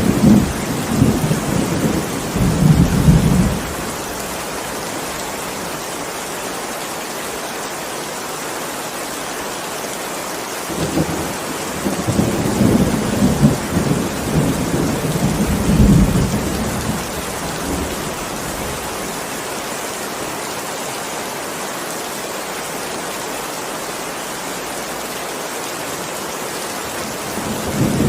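Steady heavy rain hissing, with rolls of thunder rumbling low: one at the start lasting about three seconds, a longer one from about eleven to seventeen seconds in, and another beginning near the end.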